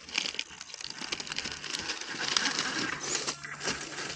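Radio-controlled rock crawler driving over rough ground: a small electric motor and gears whirring, with a dense crackle of tyres and chassis on rocks and brush. A steady low hum sets in about three seconds in.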